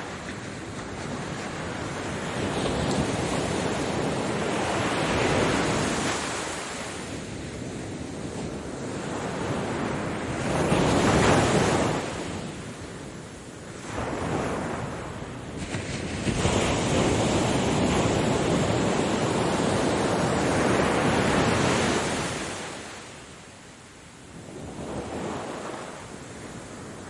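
Ocean surf, waves breaking and washing in, swelling and fading in repeated surges. The loudest surge comes about eleven seconds in, and a long one runs from about sixteen to twenty-two seconds.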